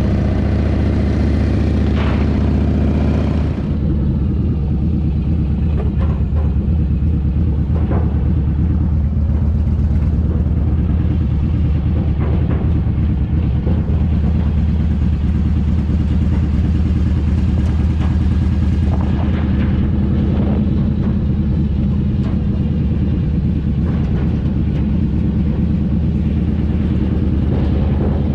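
Harley-Davidson Fat Boy's air-cooled Evolution V-twin engine running steadily while the motorcycle is ridden along the road.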